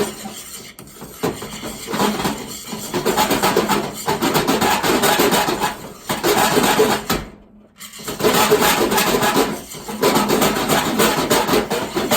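A non-stick frying pan and cooking utensils scraping and rubbing as an omelette is made, with a rapid run of rough strokes and a brief pause about seven and a half seconds in.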